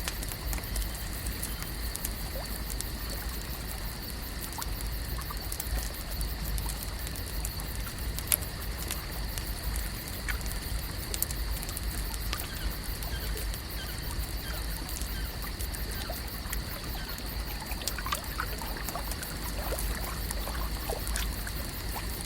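Lake ambience: water gently trickling and lapping, with scattered small ticks over a steady high hiss and a low rumble.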